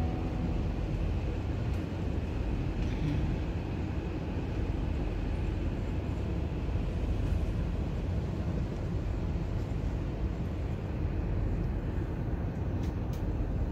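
Steady low rumble of a passenger train heard from inside the carriage, with a couple of faint clicks near the end.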